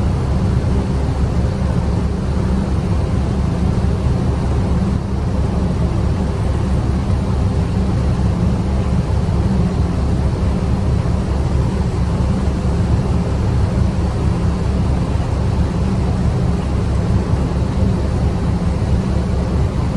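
Steady low drone of ship's engine machinery, running evenly without change.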